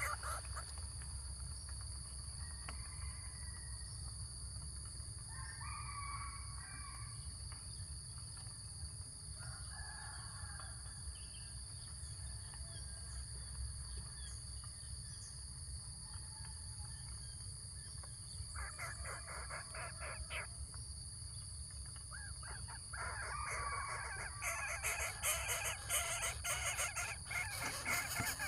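Harsh, raspy bird calls in short bouts every few seconds, coming thicker near the end, over a steady high-pitched drone.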